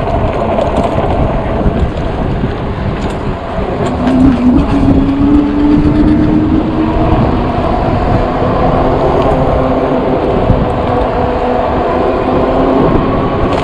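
Wind buffeting the microphone of a moving e-bike, a loud low rumble throughout, with a steady hum that sets in about four seconds in and fades near the end.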